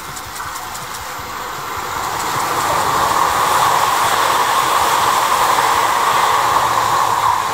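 Tobu N100 series Spacia X electric train running past the platform. Its wheel and running noise grows louder over the first three seconds and stays loud as the cars go by.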